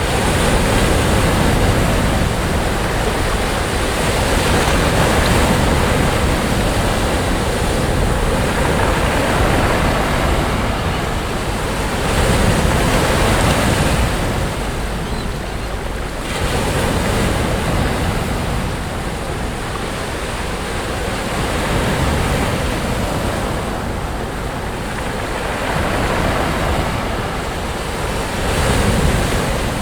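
Sea waves breaking on a beach: continuous surf that swells and eases every few seconds as each wave comes in.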